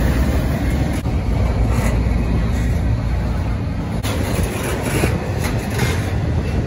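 Double-stack intermodal freight train rolling past close by: a steady low rumble of steel wheels on rail, with a sharp clank about four seconds in and brief metallic squeals and rattles after it.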